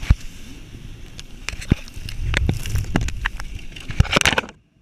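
Jet ski ride heard through a GoPro: rumbling wind and water noise with many sharp knocks and clicks, cutting off abruptly near the end.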